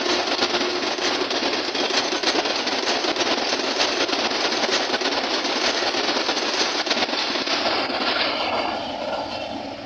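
Passenger train coaches running past close by: a dense rumble with rapid clatter of wheels on the rails. It fades from about eight seconds in as the last coaches draw away.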